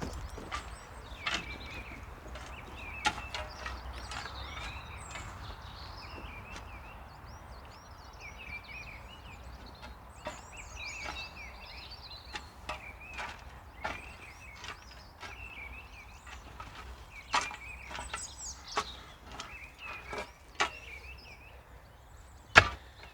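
Intermittent scrapes and knocks of a shovel working a load of wood chips, with the sharpest knock near the end. Small birds chirp throughout.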